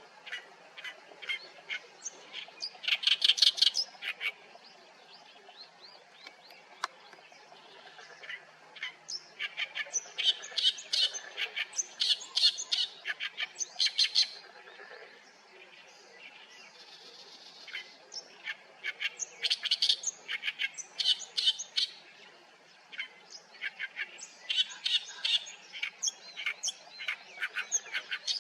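Oriental reed warbler singing its loud, harsh, chattering song: rapid runs of grating repeated notes ("gaek-gaek") in phrases of a few seconds, broken by short pauses.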